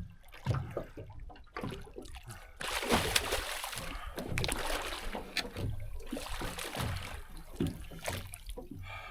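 Water splashing and sloshing, with scattered knocks; loudest from about three to five seconds in.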